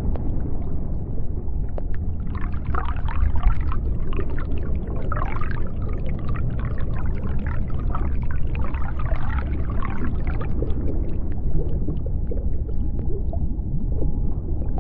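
Underwater ambience: a steady deep rumble with scattered clicks. From about two seconds in, a run of whale calls rises and falls in pitch for about eight seconds, then fades.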